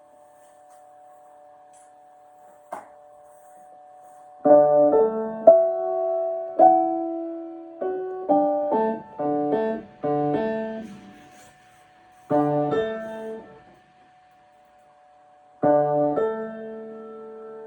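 Piano played in short phrases of chords and melody notes, starting about four seconds in, with pauses between phrases. Before it there is a steady faint hum and a single click.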